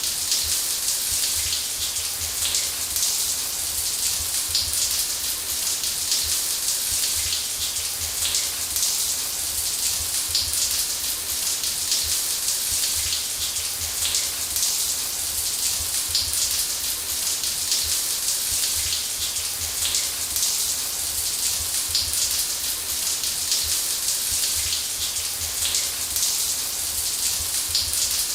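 Running shower: water spraying and splashing in a steady, dense hiss with a low rumble underneath.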